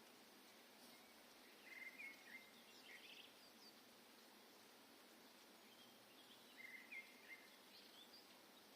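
Soft woodland birdsong: two short bouts of chirping calls about five seconds apart, over a steady faint hiss of forest ambience.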